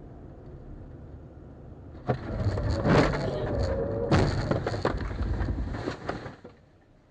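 Steady road rumble, then a car crash about two seconds in: a sudden impact, a second hit about two seconds later, and crunching and scraping that dies away after a few seconds.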